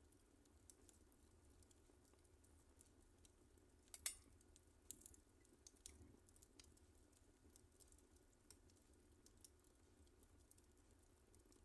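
Wood fire crackling faintly in a fireplace, scattered small clicks with one louder pop about four seconds in.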